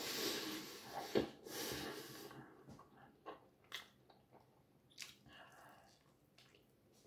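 A person chewing a mouthful of flatbread, with breathing and small mouth clicks that thin out over the last few seconds.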